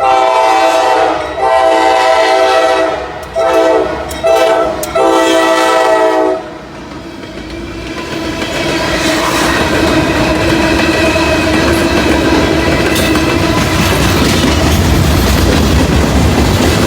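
Norfolk Southern freight locomotive sounding its multi-note air horn for the grade crossing: two long blasts, two short, then a final long one, ending about six seconds in. The train then passes close by with a rising, steady rumble and the clickety-clack of freight car wheels over the rail joints.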